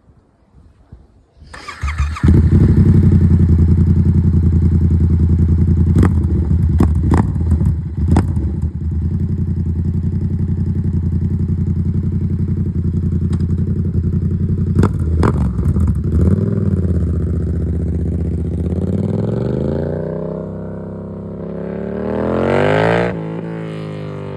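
Yamaha MT-07's 689 cc parallel-twin engine with a Black Widow aftermarket exhaust cold-starting: it cranks briefly, catches about two seconds in, and settles into a loud, fast idle broken by a few sharp cracks. Near the end it is revved slowly up, then drops back quickly.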